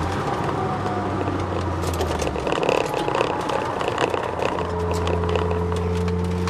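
Twin-turbo Ford Sierra XR4x4's engine heard from inside the cabin at speed, a steady drone that drops away about two and a half seconds in and comes back near the end, now with a thin whine rising slightly in pitch. Interior rattles and knocks run throughout.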